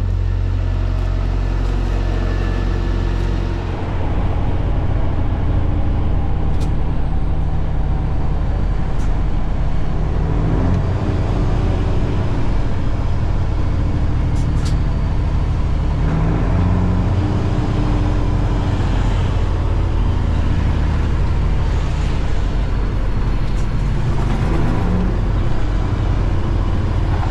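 Semi truck's diesel engine running under load, heard inside the cab, with a deep steady drone; its pitch climbs several times as the truck pulls away and picks up speed.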